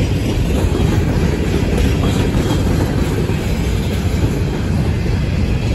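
Freight train's steel gondola cars rolling past on the rails, a steady low rumble of wheels on track.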